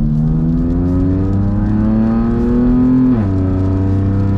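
BMW F80 M3's S55 twin-turbo straight-six on its stock exhaust, heard from inside the cabin, accelerating hard with the pitch rising for about three seconds, then dropping sharply at an upshift and running on steadily. A flat, droning tone that the owner calls a fart cannon.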